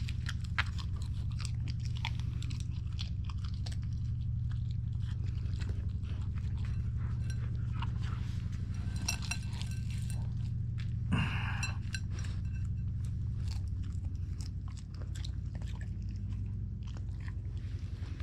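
A Siberian husky chewing and crunching food with quick, irregular bites, over a steady low hum.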